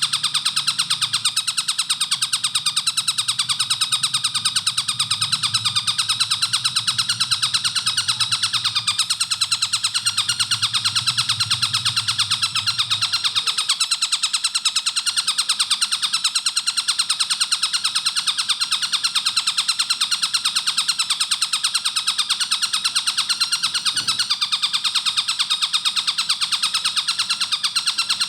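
Tengkek buto kingfisher calling in a rapid, unbroken series of repeated sharp notes, tightly spaced. A faint low hum under the calls fades out about halfway through.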